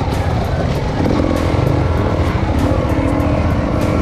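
Enduro motorcycle engine running loudly, a dense low rumble whose pitch shifts up and down from about a second in.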